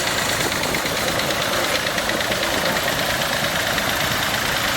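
Vintage tractor engines running steadily in a parade, a continuous mechanical noise with faint regular firing pulses.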